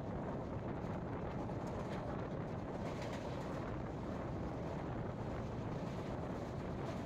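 A passenger express train running at speed, heard from on board: a steady rumble of wheels and coaches, with wind buffeting the microphone.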